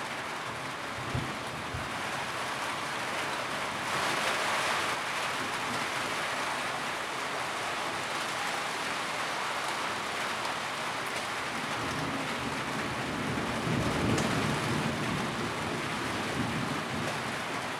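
Steady rain drumming on a tin roof, an even hiss of many drops with a brief swell about four seconds in and a low rumble building near the three-quarter mark.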